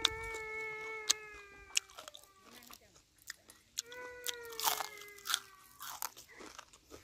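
Crisp bites and crunching as someone chews crispy batter-fried banana. A long, steady high-pitched tone sounds twice, near the start and again about four seconds in, slowly falling in pitch each time.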